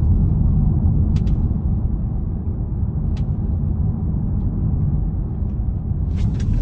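Polestar 2 electric car driving over rough road: a steady low rumble of tyres and road, with a sharp click about a second in, another about three seconds in, and a quick run of clicks near the end. The clicks are the clicking sound this car makes when going over cracks and rough road.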